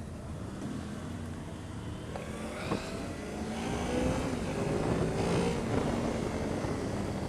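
Motorcycle engine running while riding, its pitch rising and falling with the throttle, under a steady rush of wind noise. A short sharp click comes about two and a half seconds in.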